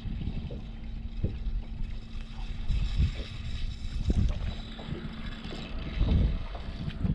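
Wind gusting across the microphone in uneven low rumbles and buffets, with a steady faint hum beneath.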